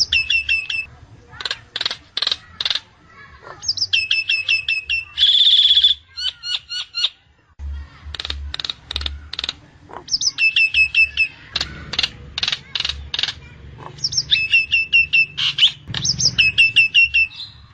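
Nias hill myna calling: runs of quick, falling whistled notes mixed with sharp clicks, and one loud harsh note about five seconds in.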